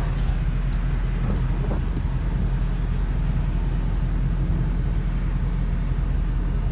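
Steady low rumble of a running vehicle, even throughout with no change.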